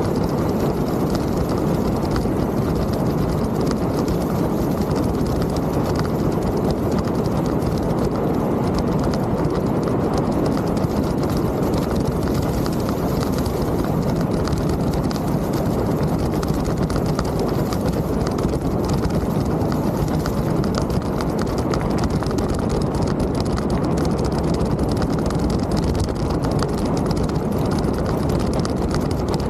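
Mountain bike riding over a trail: steady tyre rumble with constant small rattles and clatter.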